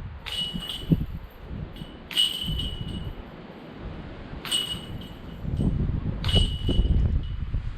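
Disc golf basket chains jingling four times, about two seconds apart, as putted discs strike them. Low wind buffeting on the microphone underneath.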